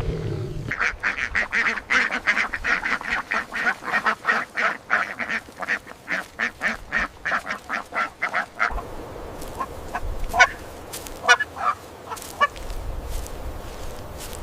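Poultry calling in a fast run of short quack-like calls, about four a second, that stops abruptly near nine seconds; after that, a low rumbling background with a few sharp high calls.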